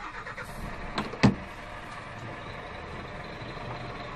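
Lorry's diesel engine running steadily, heard from inside the cab, with two sharp clicks about a second in.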